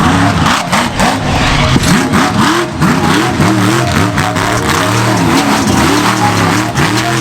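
Monster truck engine revved hard in quick, repeated throttle blips, its pitch rising and falling about two to three times a second, loud.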